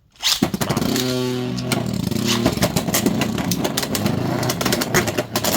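Beyblade X tops, Lightning L-Drago and Drigerslash, launched into a plastic stadium with a sudden whir. A steady spinning hum follows, then rapid, dense clicking and rattling as the tops spin, collide and scrape around the stadium.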